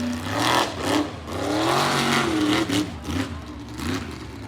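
Monster truck engine revving in a series of short bursts, its pitch rising and falling several times.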